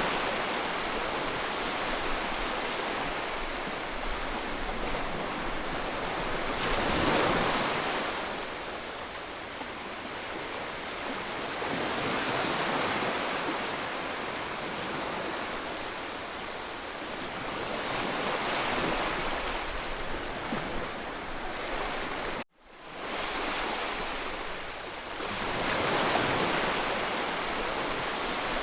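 Sea waves breaking and washing on the shore, surging about every six seconds. About 22 seconds in, the sound cuts out suddenly and fades back in, as at an edit.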